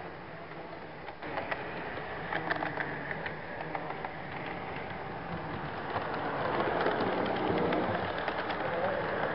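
HO-scale model train running on its track, heard from a flatcar in the consist: a steady rattling whir with irregular clicks from the wheels on the rails, growing louder about six seconds in.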